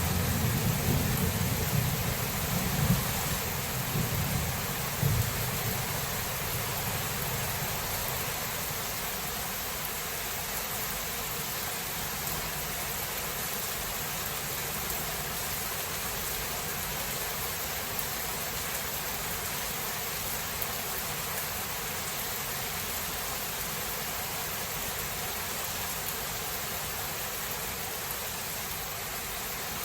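Steady rain falling in a thunderstorm, with a low thunder rumble that dies away over the first few seconds.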